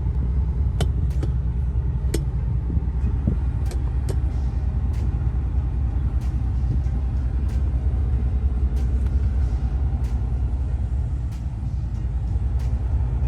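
Steady low rumble throughout, with a few light clicks and taps scattered over it.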